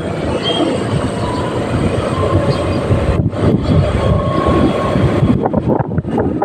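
Motorcycle on the move: a steady rumble of engine and road noise, with wind buffeting the microphone.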